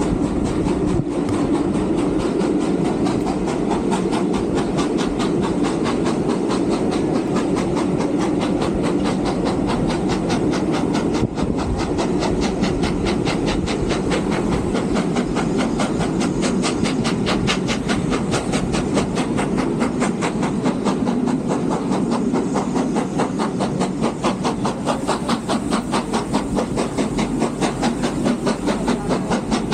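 Steam locomotive running with a fast, steady beat of exhaust chuffs over the rumble of its carriages on the rails. The beat becomes more distinct near the end.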